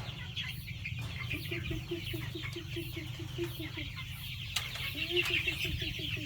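A flock of chickens clucking while feeding, with a run of low clucks at about five a second under constant high-pitched cheeping.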